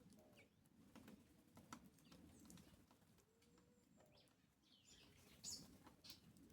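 Faint calls of several birds: short high chirps and a few low, dove-like calls, with scattered light clicks.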